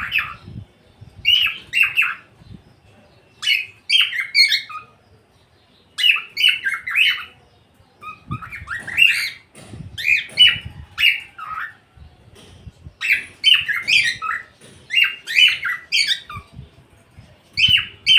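Pet cockatiel calling over and over in short clusters of chirps and squawks, a new burst every second or two.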